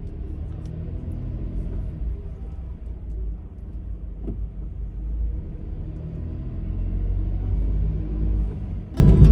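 Low, steady rumble of a Honda N-BOX kei car's road and engine noise heard from inside the cabin. A much louder sound cuts in suddenly about nine seconds in.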